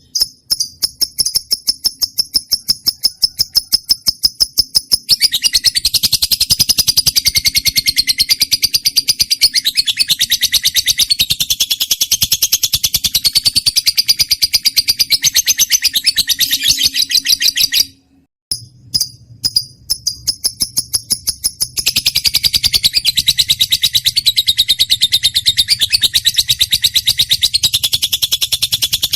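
Lovebird song: a fast, even series of sharp high chirps that runs into a long, dense, shrill chattering trill. The chatter breaks off about two-thirds of the way through, with a few single chirps, then starts again.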